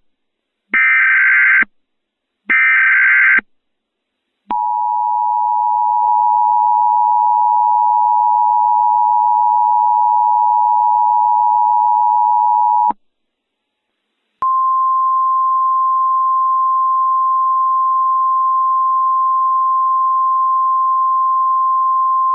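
Emergency Alert System tones: the last two short bursts of the SAME digital header data, then the two-tone EAS attention signal held for about eight seconds. After a pause of about a second and a half comes a single steady tone just above 1 kHz, the NOAA Weather Radio 1050 Hz alert tone.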